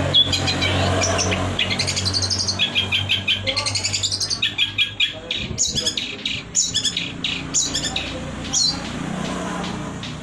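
Long-tailed shrike (cendet) singing a fast, varied song: rapid trains of short, high repeated notes in changing phrases.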